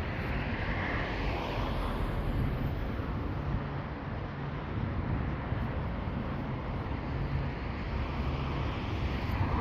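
Steady distant road-traffic noise: a continuous low rumble and hiss with a faint swell near the start and again near the end as vehicles pass.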